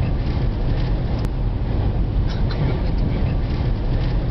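Steady road and engine noise of a vehicle at highway speed, with gusty wind rumbling heavily on the microphone.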